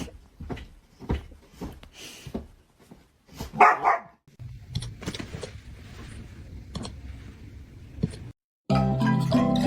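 A dog barking, with short sounds about twice a second at first and the loudest bark about three and a half seconds in. Music starts suddenly near the end.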